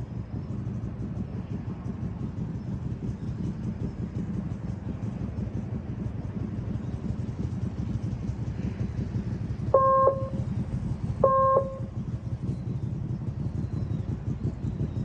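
Motorcycle engine running at low speed, a steady low rumble with rapid firing pulses. About ten seconds in come two short beeps, a second and a half apart.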